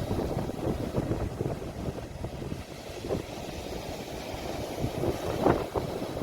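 Sea waves washing on the shore, heavily buffeted by wind rumble on a phone microphone, with a couple of louder splashes near the end.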